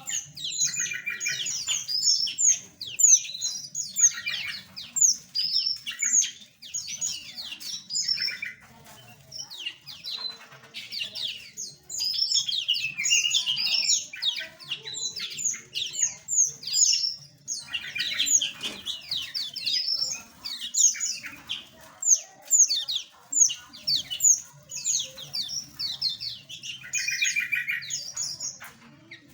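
Many small aviary birds chirping and trilling together in a dense, continuous chorus of quick high calls, with a few buzzy rattling calls near the start and near the end.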